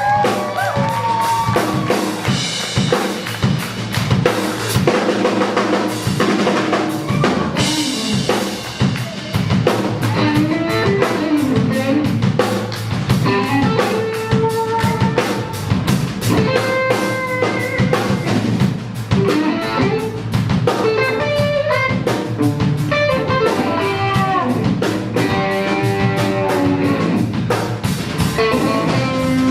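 A live rock band playing a riff-rock tune: guitar lines with bending notes over a steady drum kit beat with kick and rimshot hits.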